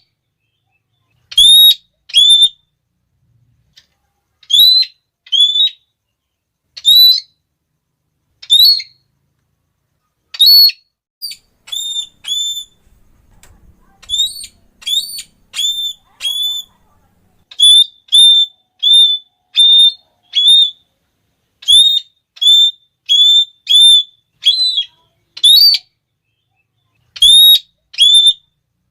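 Red-cheeked parrot giving loud, shrill, high-pitched "klee" calls: short single notes repeated with gaps, spaced out at first, then coming about two a second in a quicker run in the second half.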